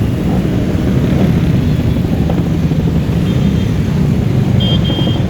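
Motorcycle engines running in a group ride, a steady low drone. Near the end a faint high tone sounds in short pieces.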